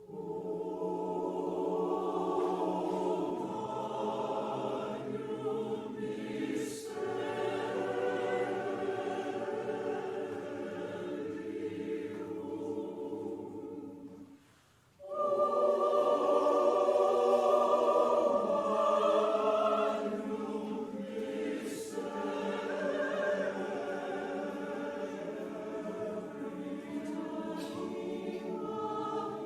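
Church choir singing a Christmas choral piece in sustained chords, entering together at the start, pausing briefly about halfway, then coming back in louder.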